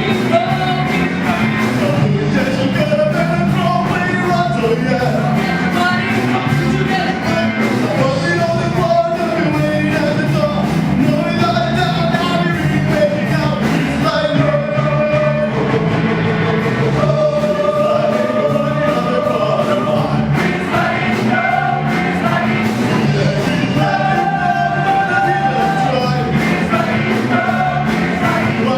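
Singers performing a rock-and-roll song with a steady beat, with a group of voices singing together.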